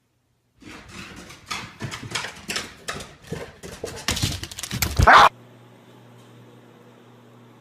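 An animal, with a run of quick, irregular noisy sounds that grow louder and end in a loud, short call about five seconds in. After that, a faint steady hum.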